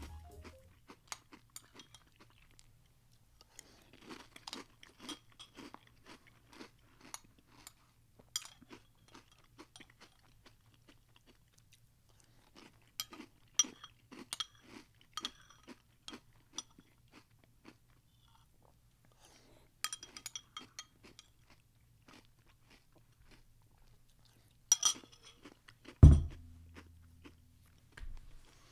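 Crunchy cinnamon roll protein cereal being chewed, in irregular bursts of crunching. A single heavy thump near the end is the loudest sound.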